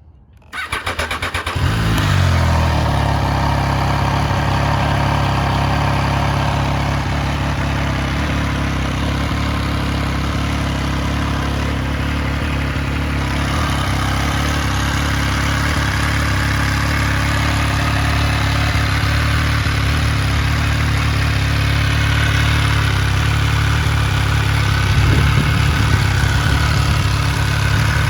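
MV Agusta Rivale 800's three-cylinder engine breathing through an Arrow carbon silencer: the starter cranks for about a second, the engine catches with a short flare of revs, then settles into a steady idle that gets a little louder near the end.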